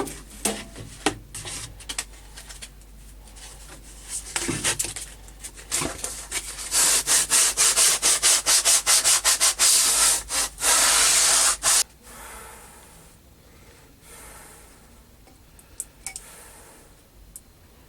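Scroll saw blade cutting 3 mm brass plate: a loud, high-pitched rasping that comes in rapid pulses, then runs steadily and cuts off suddenly about two-thirds of the way in. Scattered clicks and rubbing come before and after it.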